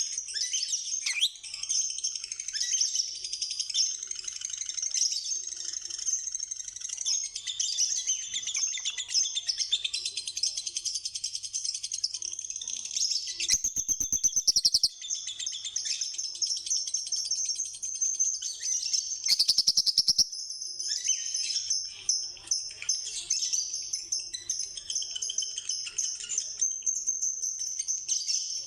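A flock of small parrots chirping and chattering continuously in dense, high-pitched twitters. Twice, about halfway through and again a few seconds later, a loud harsh buzzing rattle lasting about a second cuts across it.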